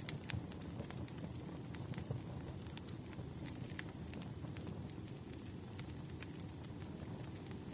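Wood fire crackling: a steady low rumble of burning logs with frequent sharp, irregular pops and snaps.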